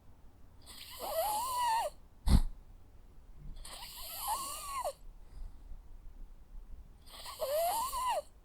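Jack Russell terrier snoring in its sleep: three snores about three seconds apart, each with a whistling tone that rises and falls. A single sharp click sounds just after the first snore.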